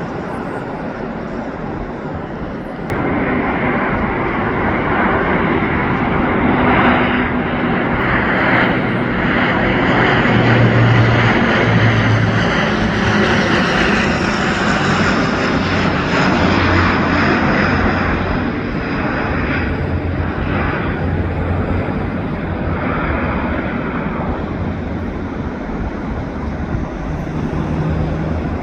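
Airliner on final approach to landing passing overhead: steady engine noise with a high whine, jumping louder about three seconds in, swelling to a peak near the middle and then slowly easing off as it goes by.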